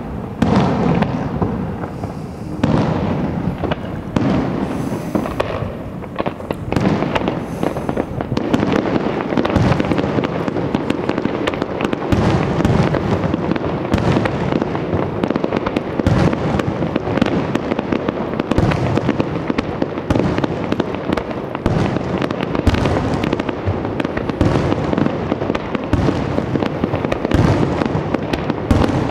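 Aerial firework shells bursting in a display. A few separate bangs come first, then from about three seconds in the bursts run together into a dense, near-continuous barrage of rapid bangs.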